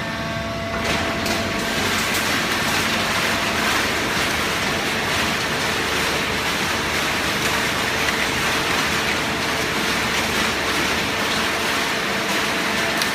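Automatic hydraulic baler running: a steady machine noise with a constant hum, growing a little louder about a second in.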